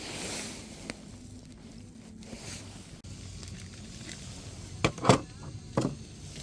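Wood campfire crackling, with scattered small pops and a few sharper, louder knocks about five seconds in.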